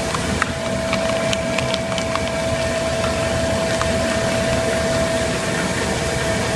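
A machine running steadily with a constant hum over a noisy whir, with a few light clicks and ticks in the first couple of seconds.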